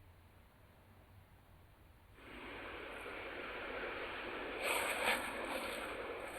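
Near silence, then about two seconds in a steady rush of rough lake waves washing and breaking on the shore, whipped up by strong wind. A louder surge comes about five seconds in.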